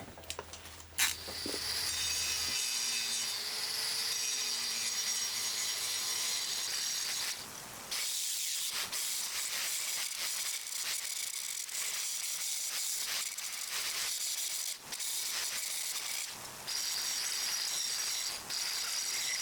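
A steady hiss that drops out briefly a few times.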